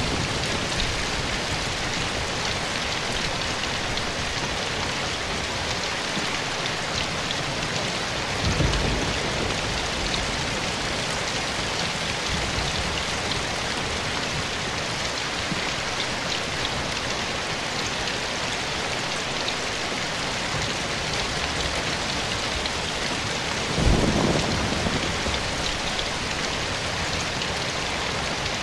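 Steady rain falling in a forest, an even hiss of drops. It is broken twice, about eight seconds in and again near the end, by a brief low thump that is louder than the rain.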